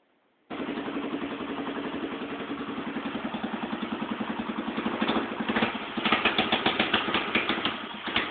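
110cc mini chopper's single-cylinder four-stroke engine starting about half a second in and idling with even firing pulses. From about five seconds on it runs rough and uneven, as it runs on only the fuel left in the carburettor.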